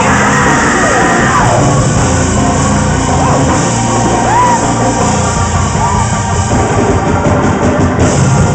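Loud gospel praise-break music from a church band, with scattered shouts and whoops from the congregation over it.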